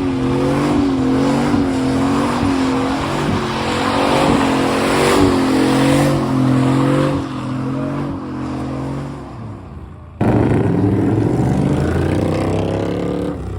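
Chevy Silverado pickup's engine held at high revs, its pitch wavering up and down, with tyre and gravel noise as the truck slides around. About ten seconds in the sound drops away and then comes back loud all at once.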